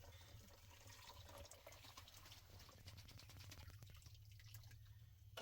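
Faint water dripping and trickling in small irregular drops, over a low steady hum.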